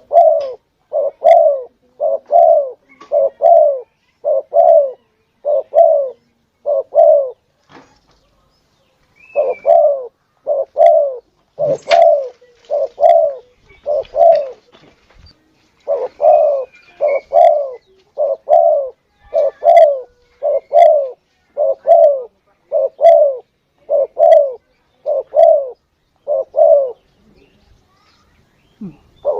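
Spotted dove (tekukur) cooing over and over, with the coos coming in close pairs in an even rhythm and pausing briefly a few times. This is a lure call recording used to draw in tekukur doves.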